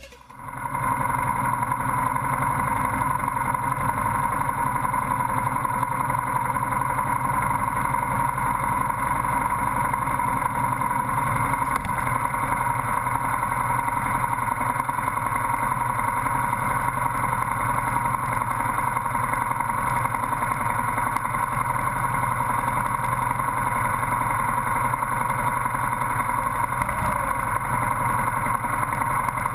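Motorcycle engine idling steadily while the bike stands still in traffic.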